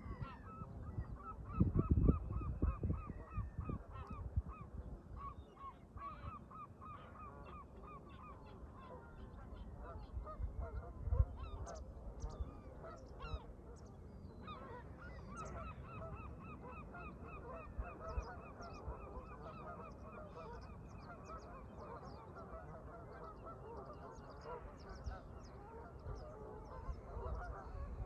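A flock of Canada geese honking, long runs of short repeated calls overlapping, pausing briefly about halfway and then starting up again. Wind gusts bump the microphone about two seconds in and again around eleven seconds.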